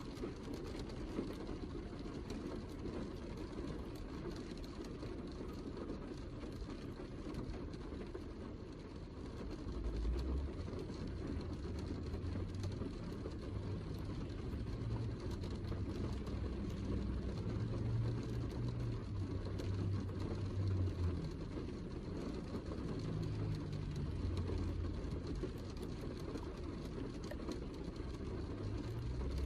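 Steady heavy rain, a dense even hiss weighted toward the low end. About a third of the way in, a deep uneven low rumble joins it and rises and falls for the rest of the stretch.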